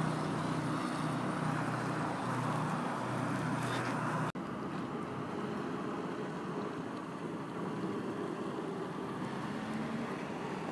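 A vehicle engine running steadily amid outdoor street noise; about four seconds in the sound cuts off abruptly and gives way to a slightly quieter, even outdoor noise without the engine hum.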